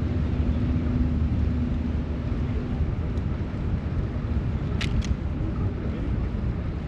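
Street traffic noise heard from a moving bicycle: a steady low rumble, with a hum that runs for the first three seconds and stops, and two sharp clicks about five seconds in.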